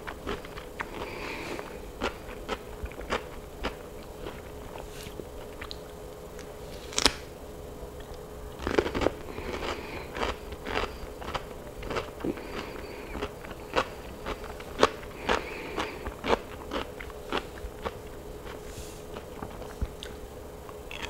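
Fresh cucumber spears being bitten and chewed close to a lapel microphone: a string of irregular crisp crunches and mouth clicks.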